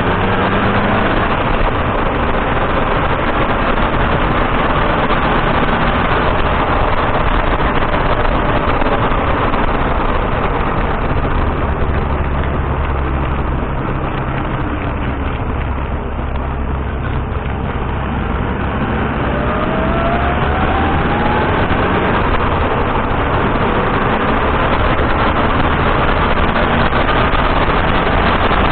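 Datsun on-DO car being driven: steady road, tyre and engine noise, with the engine note rising once about two-thirds through.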